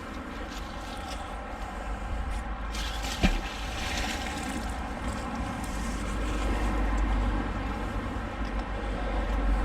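Rushing water of a rain-swollen, fast-flowing river, a steady noise with low wind rumble on the microphone. A single sharp knock about three seconds in.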